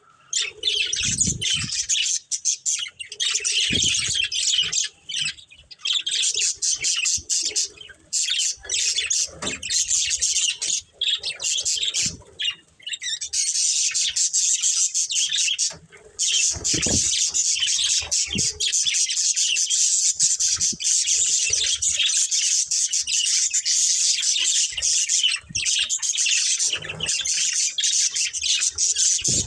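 Budgerigars (budgies) chattering and chirping nonstop in dense, overlapping high warbles and tweets.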